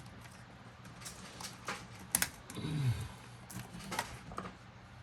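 Scattered clicks and taps of hands working an LS fuel injector loose, the sharpest pair about two seconds in. A short, low, falling grunt of effort follows right after.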